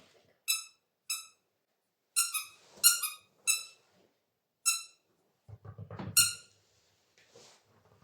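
Rubber squeaky dog toy being squeezed, giving about ten short, high squeaks at uneven intervals, some in quick bunches. A brief low rustling, scuffling noise comes just before the last squeak.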